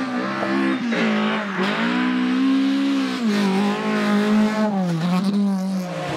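Rally car engine running hard under throttle, its note climbing, holding and dropping several times as the car accelerates, shifts and lifts off.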